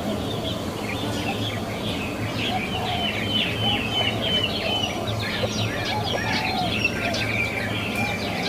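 Many young ducklings peeping, with a quick run of short, falling high peeps in the middle over a steady low hum.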